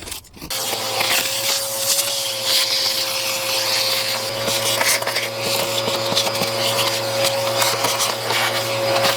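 Vacuum cleaner switching on about half a second in and running steadily with a constant whine, sucking leaves out of an engine bay.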